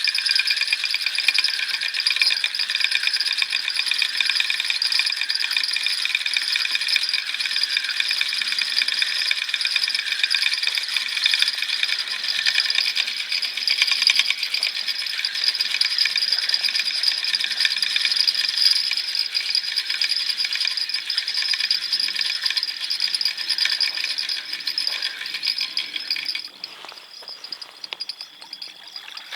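Chorus of crickets trilling steadily at night, a dense high-pitched pulsing chirr; some of the voices fall silent for a few seconds near the end.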